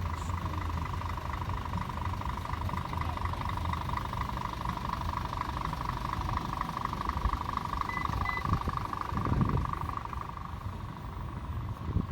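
Heavy truck diesel engine running at a steady idle, with a constant mechanical hum that drops away near the end.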